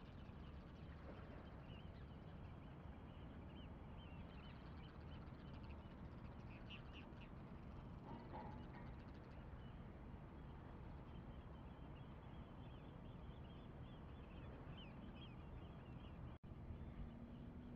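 Faint steady low rumble with many short, high bird chirps scattered throughout, and a brief lower call about eight seconds in.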